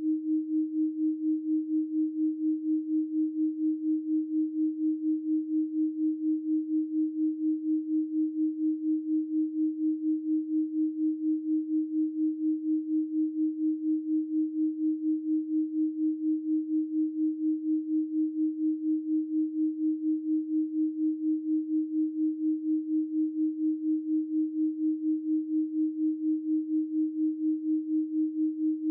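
A pure electronic sine tone at about 312 Hz, held steady without change, with an even pulse in loudness about four times a second.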